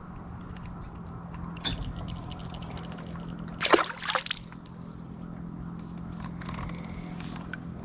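Water sloshing and splashing beside a kayak, with one louder splash a little under four seconds in, over a low steady hum.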